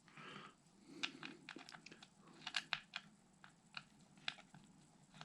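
Faint, irregular small clicks and taps of small screws and plastic parts being handled on a Traxxas Maxx RC truck chassis.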